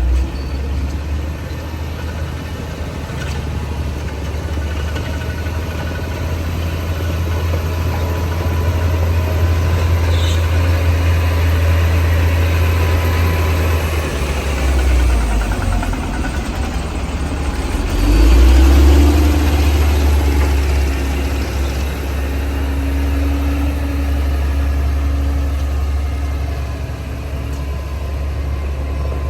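Bulldozer's diesel engine running continuously with a deep, heavy drone, dipping briefly about halfway through and then swelling to its loudest a few seconds later.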